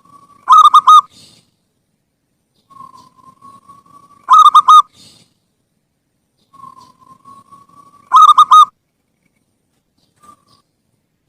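Zebra dove (perkutut) cooing: three phrases about four seconds apart, each a soft drawn-out note running into a loud, quick burst of rippling coos.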